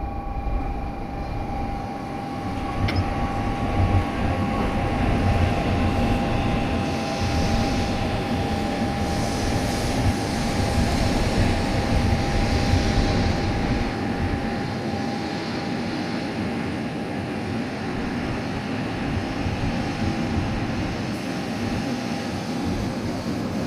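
Sanyo Shinkansen train moving through the station, a steady low rumble with rushing noise that swells over several seconds and then eases. A steady high tone sounds throughout.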